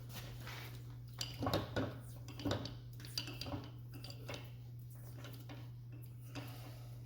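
Metal clinks and handling knocks, clustered in the first half, over a steady low hum.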